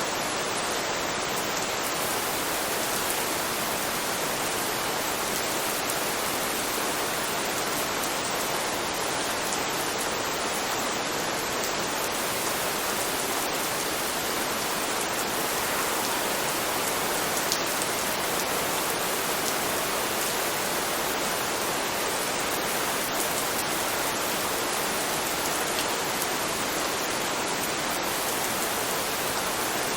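Steady rain recording: an even, continuous hiss of falling rain with occasional faint drop ticks.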